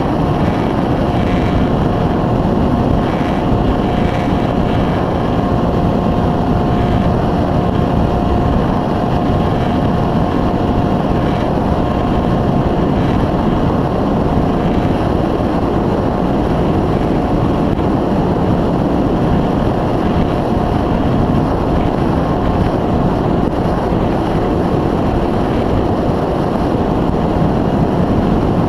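Electric motor and pusher propeller of an EasyStar 2 RC plane running with a steady whine, under heavy wind rumble on the microphone.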